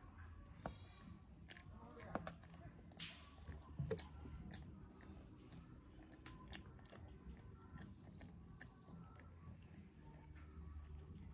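Faint chewing and biting of soft boiled yam close to the microphone, with many small clicks scattered through it.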